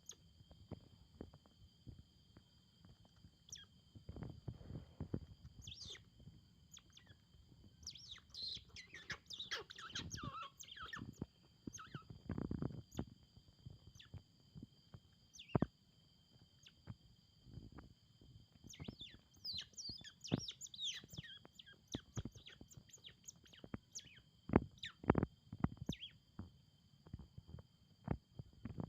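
Young otter giving short high chirps and squeaks in clusters, with scattered clicks and soft knocks in between.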